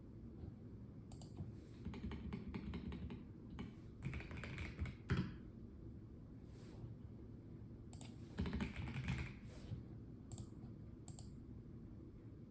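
Typing on a Melgeek Mojo84 plastic mechanical keyboard: three short runs of quick keystrokes with pauses between them, one key struck noticeably harder about five seconds in, and a couple of single taps near the end.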